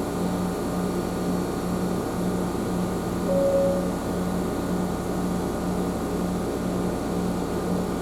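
Electric train running along the track, heard from inside the car: a steady rumble with a low hum that pulses about twice a second, and a brief higher tone a little past three seconds in.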